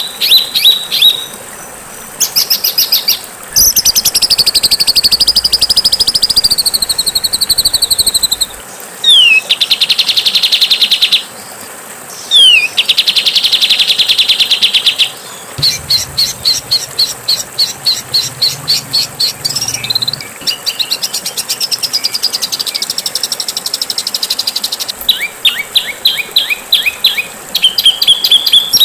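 Songbird song from a masteran training recording: phrases of rapid repeated chirps, dense buzzy trills and quick down-slurred whistled notes, broken by short pauses, over a steady faint hiss.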